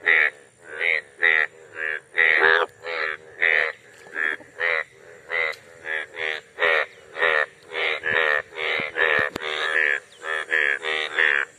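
A chorus of male Indian bullfrogs calling in the water during the breeding season. Their loud, nasal croaks overlap and repeat about two to three times a second.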